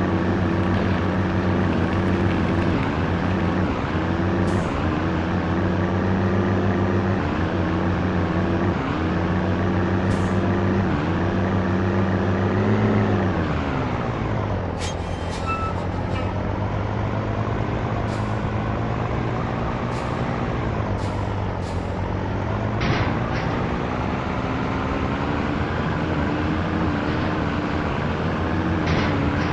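Scania T113 truck's diesel engine running on the road. About halfway through its note glides down as the revs fall, holds lower, then slowly climbs again. A few short hisses and clicks come over it.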